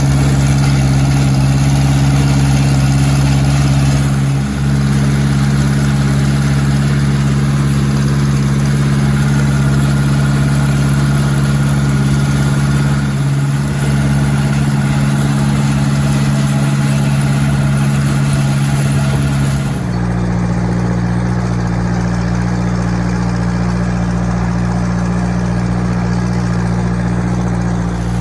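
1956 Ford 640 tractor's four-cylinder gasoline engine running steadily while the tractor is driven. About 20 seconds in, its note drops to a lower, steady engine speed.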